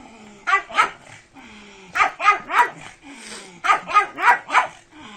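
A pug barking in quick bursts: two barks, then three, then four.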